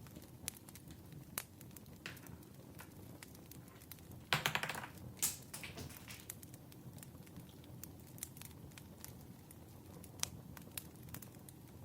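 Wood fire crackling, with scattered sharp pops over a low, steady hiss and a louder, denser burst of crackles about four seconds in.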